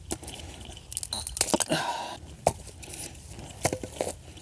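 Dry wood and twigs crunching and snapping in a series of irregular sharp cracks, denser for a moment about one and a half seconds in.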